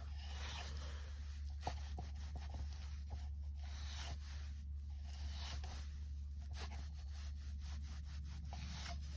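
Wood campfire crackling, with irregular small pops and clicks over a steady low rumble.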